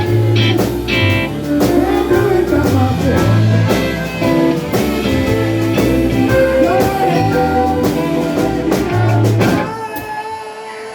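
Live blues band with electric guitar playing an instrumental passage over a bass line and a steady beat. About ten seconds in, the band stops together, leaving one note ringing on.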